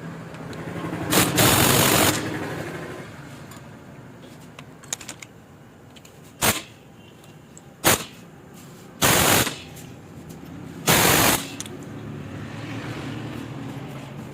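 Impact wrench rattling in short bursts as it tightens the clutch hub nut on a Yamaha RX100 engine: five bursts, the first lasting about a second, the others briefer.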